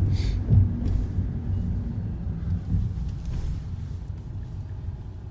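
A low rumble that slowly fades away over a few seconds.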